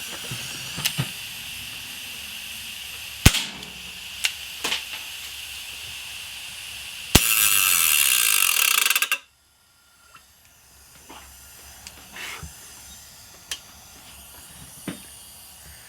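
Two sharp air pistol shots into a running hard disk drive, about four seconds apart, over a steady hiss. After the second shot a loud scraping noise lasts about two seconds, then cuts off suddenly as the drive is killed, leaving only faint ticks.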